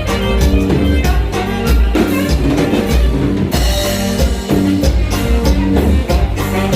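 Norteño dance music played loud, driven by a steady drum-kit beat and bass, with a cymbal crash about three and a half seconds in.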